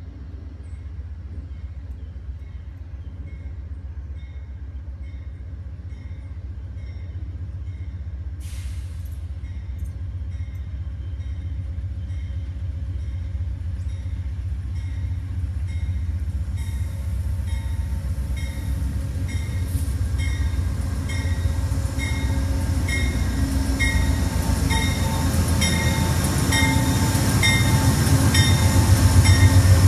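Amtrak passenger train behind a GE Genesis diesel locomotive approaching: a low engine and rail rumble grows steadily louder and is loudest near the end as the locomotive draws alongside. A bell rings about twice a second throughout.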